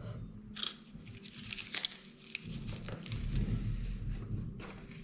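Dry, papery smoked-garlic skin crinkling and tearing as cloves are broken off and peeled by hand, in irregular crackles with one sharper click about two seconds in.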